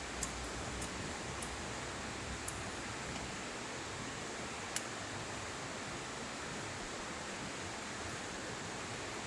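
Wood campfire burning: a steady hiss with a few sharp pops and crackles, the loudest about five seconds in.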